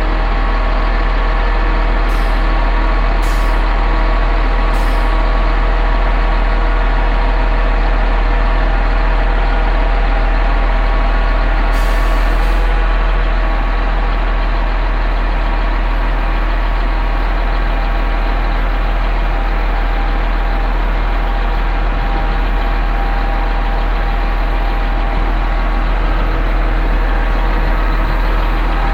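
Concrete pump truck's engine running steadily under load. It is broken by three short hisses of air a few seconds in and a longer hiss about twelve seconds in.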